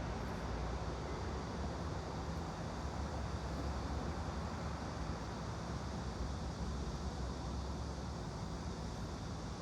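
Steady background white noise: a constant low rumble with an even hiss over it, and no distinct events.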